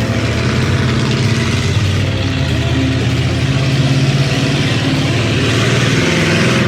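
A vehicle engine running steadily: a low hum under a broad rushing noise, swelling slightly about halfway through.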